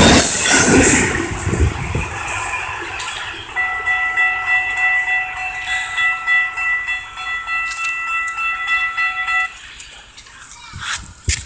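The tail end of a freight train carrying truck trailers rolls past, its rumble fading within the first couple of seconds. Then a distant train horn sounds one long steady blast of about six seconds.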